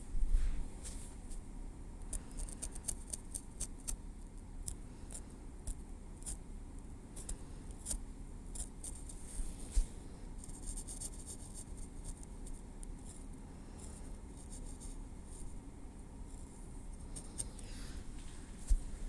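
Metal tweezers working through hair on a scalp: many soft, irregular clicks and light scratches. There is a louder low bump just after the start.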